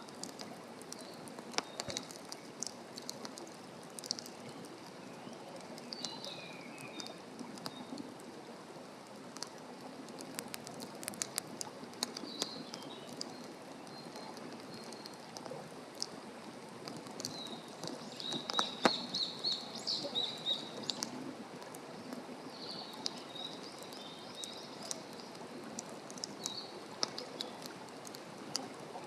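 Wood fire burning in a fire stand, crackling with frequent sharp pops over a steady hiss. Small birds chirp at intervals, most busily a little past the middle.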